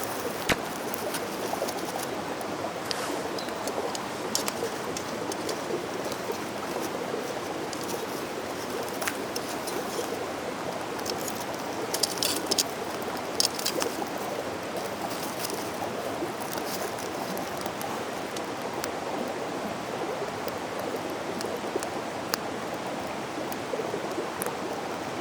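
Mountain stream flowing steadily, with a few sharp clicks around the middle.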